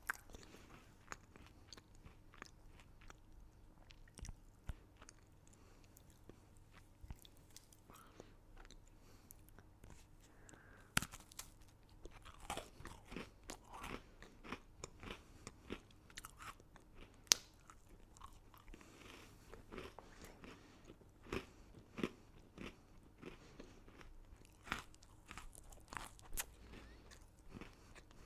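A person crunching and chewing crunchy candy close to the microphone: irregular sharp crunches with wet chewing between them, sparse at first and coming thicker and louder about halfway through.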